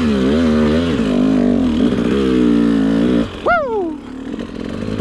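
Dirt bike engine revving up and down as the rider works the throttle on a slippery snowy trail. A bit past three seconds it drops to a low idle, broken by one quick high rev that climbs and falls back.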